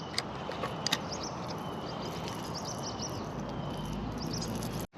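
Small birds chirping repeatedly over a steady outdoor background hiss, with two faint clicks in the first second. The sound cuts out abruptly for an instant near the end.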